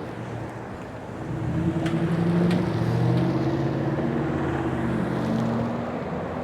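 Road traffic: a car passing close by, its engine and tyres growing louder about a second and a half in, then slowly fading, over steady road noise.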